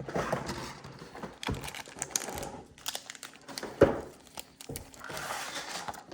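A Pokémon card collection box being opened by hand: packaging crinkling and rustling, with scattered small clicks and one sharper knock about four seconds in.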